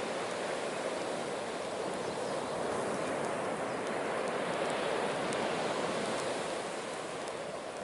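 Steady wash of sea waves on the shore, with a few faint sharp crackles.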